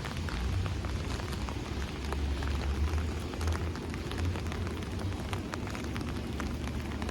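Steady rain falling, heard as a hiss with many separate drop ticks, over a low rumble.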